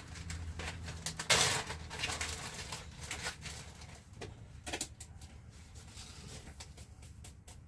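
Light handling clatter and clicks as a salt shaker is picked up and used over a plate of food, with a louder brushing burst about a second and a half in and a low steady hum under the first few seconds.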